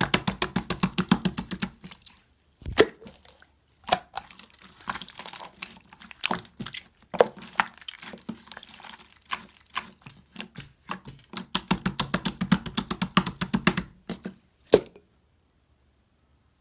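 Slime being squeezed and worked by hand, making rapid runs of wet, sticky clicks and pops in several bursts with short pauses, stopping suddenly near the end.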